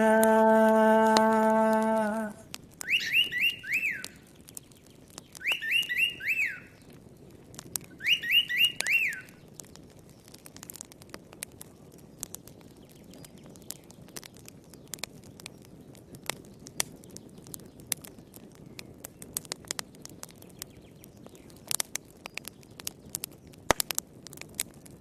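A sung held note ends about two seconds in, followed by three short bursts of bird chirps, each a quick run of falling notes. After that, a campfire crackles softly with scattered sharp pops.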